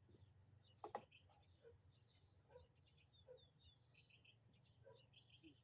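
Faint bird chirps in the background, short and scattered, over a low steady hum, with a single sharp knock about a second in.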